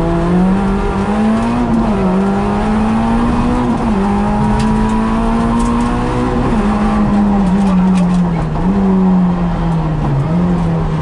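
Peugeot 106 rally car's engine heard from inside the cabin, revving hard and pulling through two upshifts, then falling in pitch as the car slows, with two quick rises as it is shifted down.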